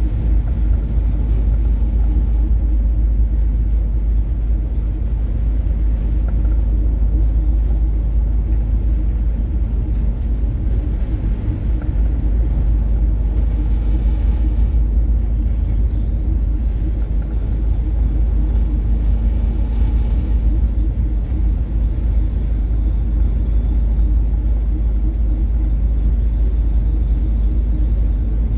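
Steady low drone and rumble of a coastal cargo ship under way in heavy seas, its diesel engine humming beneath a deep rumble. Two brief hissing washes come about halfway and about two-thirds in.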